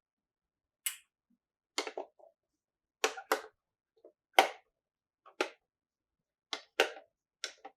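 Small plastic toy pieces clacking as they are handled and set down: about a dozen sharp clicks at irregular intervals, several in quick pairs.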